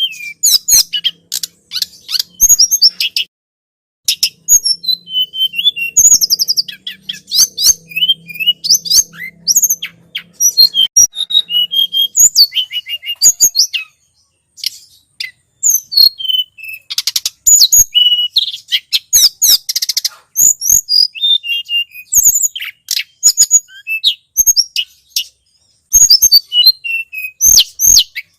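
Tledekan gunung songbird singing energetically: rapid bursts of high-pitched chirps, twitters and short trills, broken by a couple of brief pauses, as a bird-lure recording.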